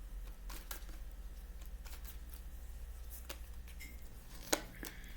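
Tarot cards being handled and laid down: scattered soft taps and card slides, the loudest about four and a half seconds in, over a low steady hum.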